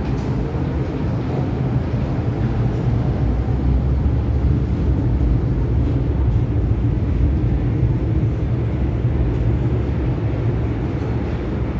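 Steady low rumble of an MTR M-Train electric multiple unit running through an underground tunnel, track noise with a low hum beneath, slightly louder in the middle.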